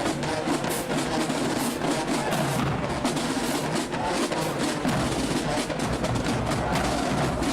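Marching band drumline playing a cadence, with rapid drum strokes in a steady rhythm.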